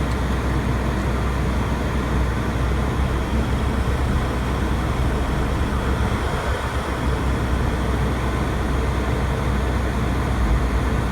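Car engine idling with the air conditioner running: a steady low rumble under an even rushing noise, with no change.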